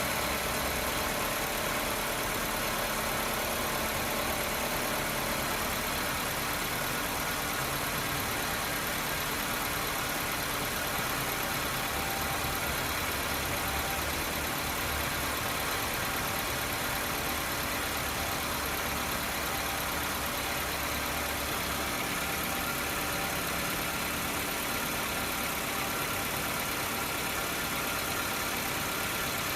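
Honda 1.3-litre i-DSI four-cylinder petrol engine idling steadily.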